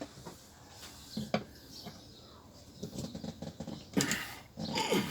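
Screwdriver clicking and scraping against a stripped screw head that won't turn, in scattered short bursts that grow busier near the end.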